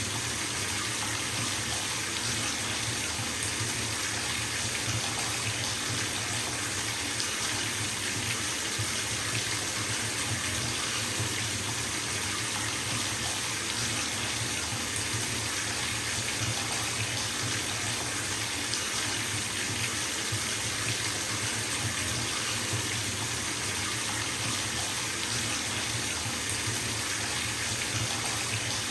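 Water running steadily from a bathtub tap into a filling tub, a constant splashing rush without change.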